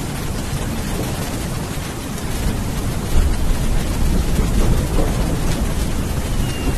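Steady heavy rain with a low rolling rumble of thunder underneath, the rumble swelling slightly about three seconds in.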